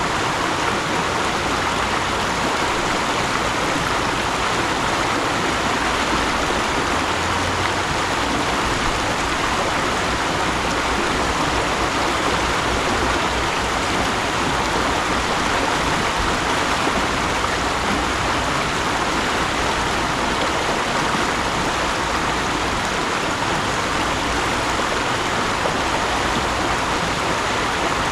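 Mountain stream flowing over rocks: a steady, even rush of water, strongest in its midrange hiss.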